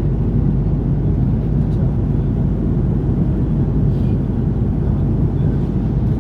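Steady low rumble of airliner cabin noise from engines and airflow, heard inside the cabin of an Airbus A330-300.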